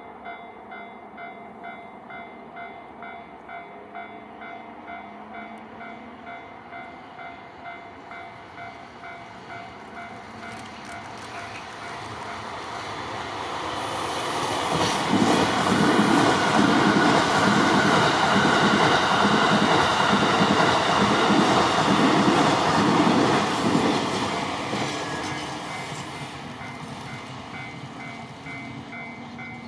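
Level crossing warning bell dinging steadily, about two dings a second, while the E001 'Train Suite Shiki-shima' passes. The train's rumble swells, peaks with rhythmic clattering of the wheels on the rails between about 15 and 24 seconds in, then fades away.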